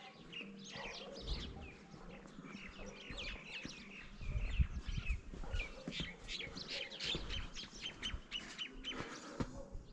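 Small birds chirping and calling in many quick, overlapping short notes.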